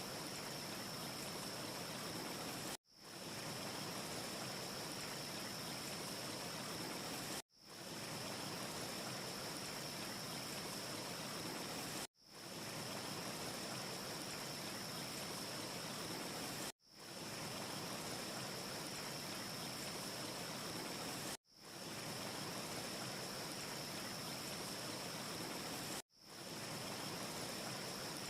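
Steady, even rushing hiss with a brighter high sizzle on top, from a short looped ambience track: it cuts out abruptly about every four and a half seconds and fades straight back in, six times. No fireplace crackles are heard.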